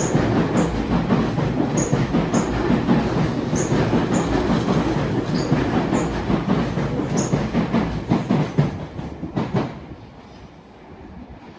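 Tobu Railway electric train running through the station: a heavy rumble of wheels on rail, with regular clickety-clack as the wheelsets cross rail joints, often in pairs. The sound drops away sharply about ten seconds in as the last car clears.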